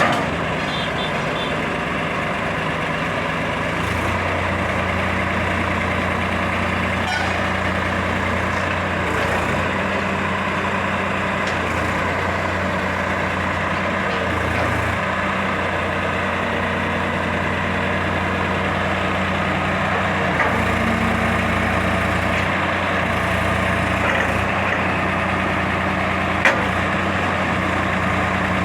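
Tractor engine running steadily while working a loader. Its low drone steps up about four seconds in and changes a few more times, and there is a single sharp click near the end.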